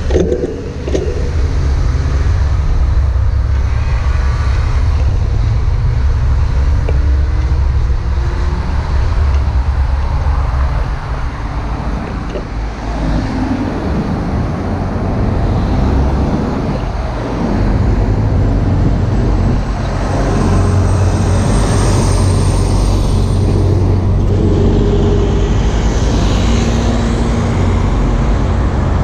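Steady heavy rumble of wind on the microphone of a moving bicycle, with road traffic passing.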